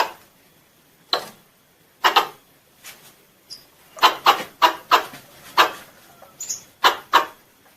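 Squirrel giving a series of short, sharp calls at irregular spacing, coming quicker in a run about four seconds in: the calling note that draws other squirrels in.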